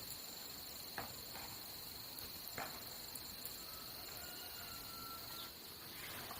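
Forest ambience dominated by insects making a steady high-pitched drone. A few sharp clicks come about one and two and a half seconds in, and a faint thin whistled note is held for about a second near the end.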